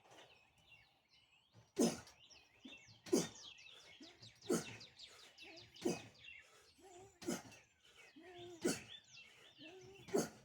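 Small birds chirping and tweeting throughout, with a sharp, forceful breath about every one and a half seconds, seven in all: the steady pace of a man breathing through pull-up reps.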